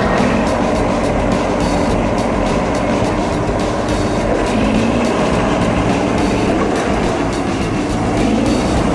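A vehicle running steadily: continuous loud mechanical noise with a low hum, much like a train on rails.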